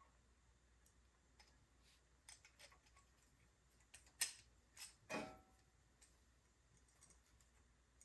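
Near silence broken by a few small clicks and a sharper clink about four to five seconds in, the last ringing briefly: small metal parts and tools being handled on a workbench.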